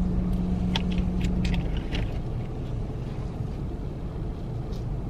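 Low steady rumble inside a car's cabin, with a steady hum that cuts off about a second and a half in. A few short clicks and crunches come in the first two seconds.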